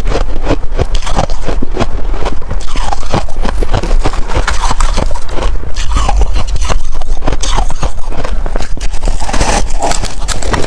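Freezer frost being bitten and chewed, a loud, dense run of crisp crunches and crackles.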